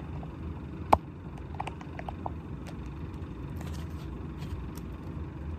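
Handling of a paper journal: one sharp click about a second in, then a few light ticks, over a steady low rumble of background noise.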